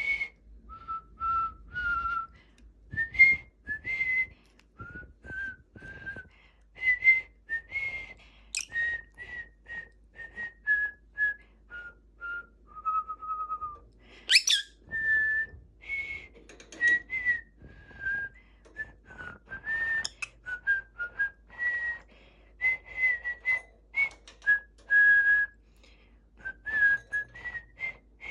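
A song whistled by a person, breathy and airy, with much of the breath escaping around the notes, but carried through note by note as a melody to the end. A couple of brief high squeaks cut in along the way.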